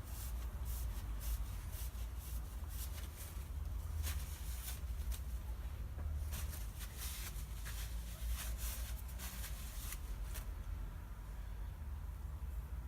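Faint scattered clicks and rubbing from small parts being handled on a workbench, over a low steady hum.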